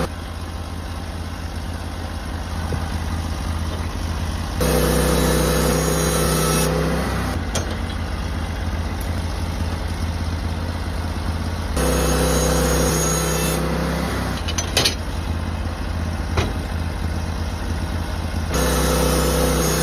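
Portable sawmill running as it cuts through a dried Western red cedar log. The engine note alternates several times between a louder, steadier hum and a rougher, noisier stretch, with a few sharp clicks partway through.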